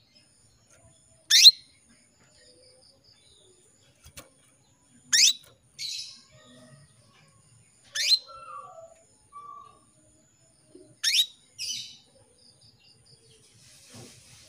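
Female canary calling: four loud, sharp, steeply falling call notes about three seconds apart, some followed by a softer short note. These are the calls of a hen in breeding condition calling to a male.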